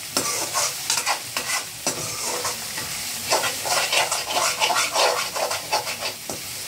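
Onions frying and sizzling in oil in a metal kadhai, with a spoon scraping and knocking against the pan many times as they are stirred.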